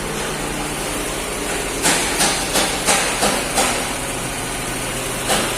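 Steady machine hum with a run of sharp knocks, about seven strikes spaced unevenly, most between two and four seconds in and one more near the end.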